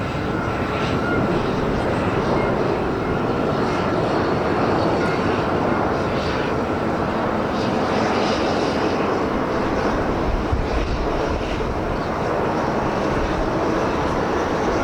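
Jet engines of a Korean Air Airbus A330-300 airliner landing, a loud, steady jet noise throughout.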